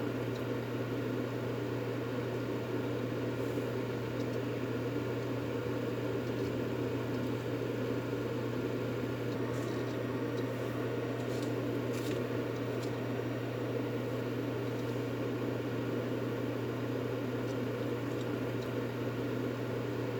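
Continuous white-noise track: an even, unchanging low hum under a steady hiss, machine-like, with a few faint ticks about halfway through.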